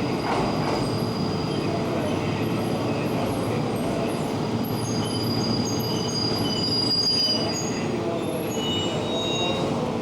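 Electric commuter train running along a station platform, with a steady rumble and a high, thin wheel squeal that holds for several seconds. Short squeals come near the end.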